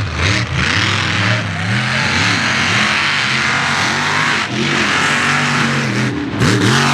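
Mega mud truck's engine revving up and down again and again as the throttle is worked, over a loud rushing noise, with a few abrupt cuts in the sound near the end.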